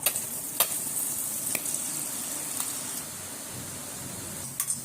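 Hot oil sizzling steadily as murukku dough is pressed into it to fry, with a few sharp clicks along the way.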